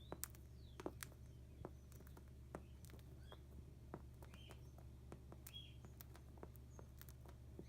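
Faint, irregular taps and clicks of a cockatiel foraging on a plastic mat, with a few soft, short cockatiel chirps over a low steady hum.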